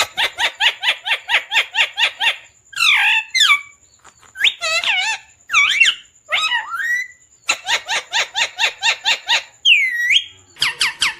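Parrot calling: fast runs of repeated sharp chirps, about five a second, alternating with single rising and falling whistles and squawks.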